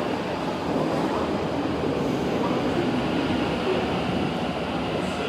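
Sydney Trains A-set (Waratah) electric train pulling in alongside the platform, a steady dense rumble of wheels and traction running.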